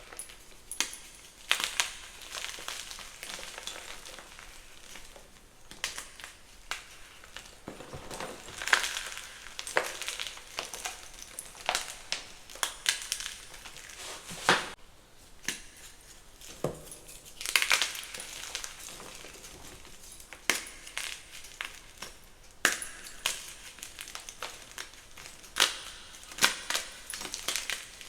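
Crunchy gym chalk being crushed: irregular sharp crunches every second or so, with a faint crumbling crackle between them.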